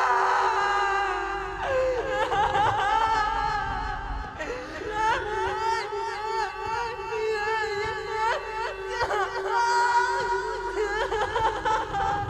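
Wailing, warbling voices layered over a steady held tone, heard as music.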